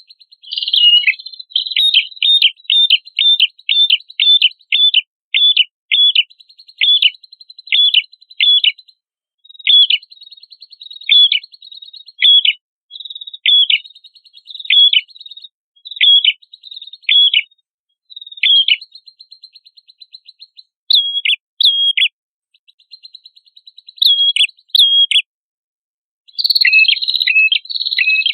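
A small songbird calling repeatedly: sharp notes that drop in pitch, about two a second, over a faint continuous buzzing trill. The notes come more sparsely mid-way, then a faster, denser burst of song starts near the end.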